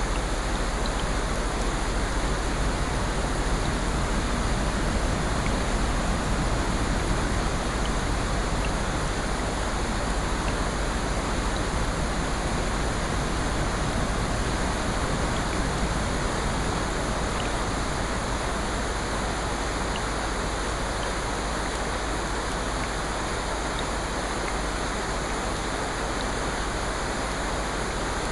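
Steady, even rushing of water, with faint scattered ticks.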